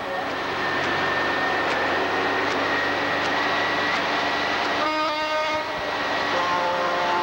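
Truck air horns sounding over steady engine and road noise, with a short multi-tone horn chord about five seconds in and horns starting again near the end.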